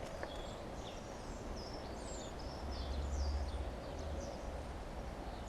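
Outdoor ambience with small birds chirping and twittering on and off. A low rumble swells briefly around the middle.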